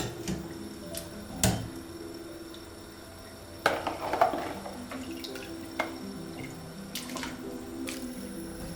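Kitchen sink work over soft background music: a few sharp knocks of dishes, and a brief rush of water from the tap about four seconds in.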